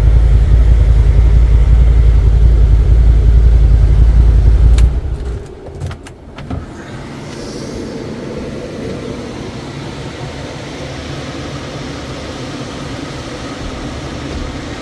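A vehicle engine running with a heavy low rumble, which cuts off abruptly about five seconds in with a click. A steady, much quieter hum and hiss follows.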